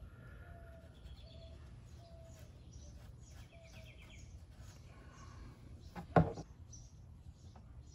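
Birds chirping: a steady run of quick, high chirps with short lower notes between them. A single sharp knock about six seconds in.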